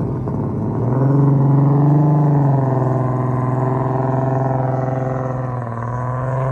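A car engine running at high revs, growing louder about a second in and holding a steady pitch, then rising again near the end as it accelerates.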